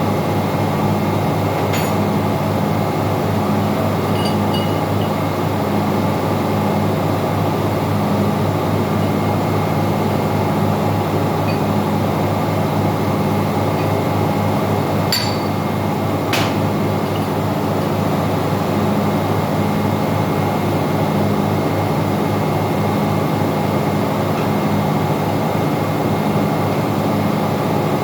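Steady drone of engine-room machinery with a hum that pulses slowly, and a few sharp metallic clinks: one about two seconds in and two about a second apart near the middle.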